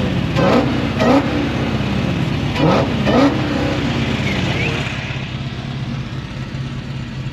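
Car engine revved in about four quick blips, its pitch shooting up and sliding back down each time, then settling to a steady low running note.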